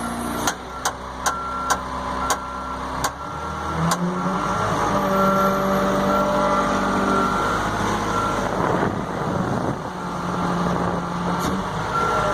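Freightliner truck's diesel engine running and revving up about four seconds in, with a backup alarm sounding in short repeated beeps. A series of sharp clicks comes in the first few seconds.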